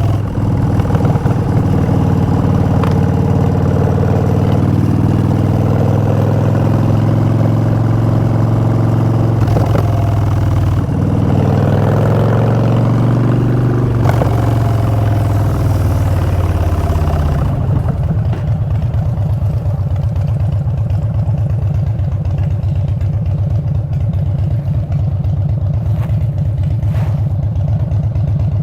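2016 Harley-Davidson Street Bob's Twin Cam 103 V-twin through Vance & Hines Short Shots exhaust, running under way with the revs rising and falling. About two-thirds of the way through the revs drop away and it settles into a low, loping beat near idle.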